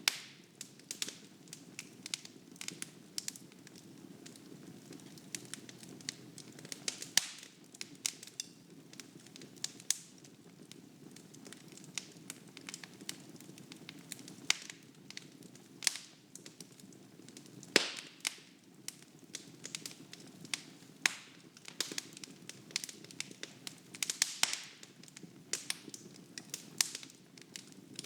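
Wood fire burning in a fireplace, crackling and popping irregularly over a steady low rush of flame, with a few sharper pops standing out, the loudest about 18 seconds in.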